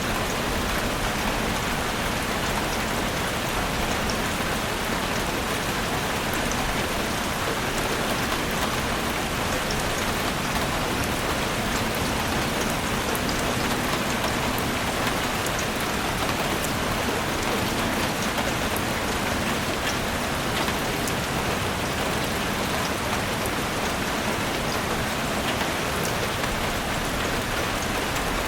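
Heavy rain falling steadily: a dense, even hiss of rain with scattered sharp drop ticks over it.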